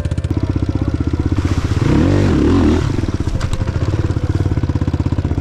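Single-cylinder enduro motorcycle engine running with a fast, even pulse. It is revved up briefly about two seconds in, then drops back.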